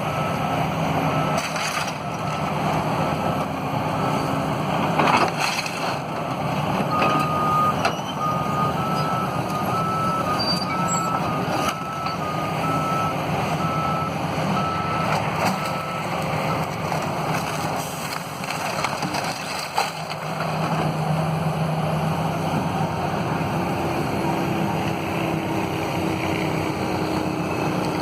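Diesel engine of a heavy demolition machine running, with its backup alarm beeping in an even on-off rhythm that stops a little past halfway.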